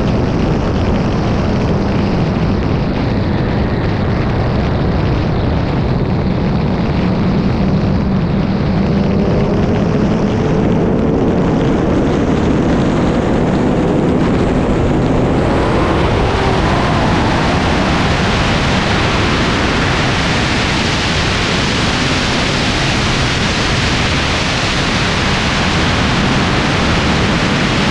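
High-powered turbocharged race cars running flat out, engine sound buried in a heavy rush of wind and road noise. A faint engine note climbs in pitch through the middle, and just past halfway the roar turns brighter and harsher.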